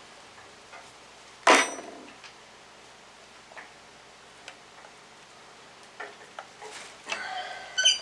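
Metal tools and parts clanking: one sharp, ringing metal clank about a second and a half in, a few light ticks, then a quick run of small ringing metallic clinks near the end.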